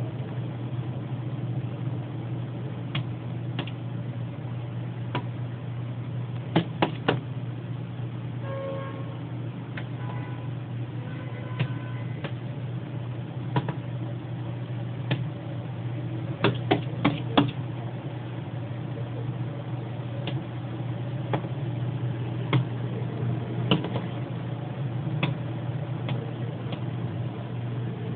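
A northern cardinal's beak pecking at the house: sharp single taps at irregular intervals, now and then in quick runs of two to four.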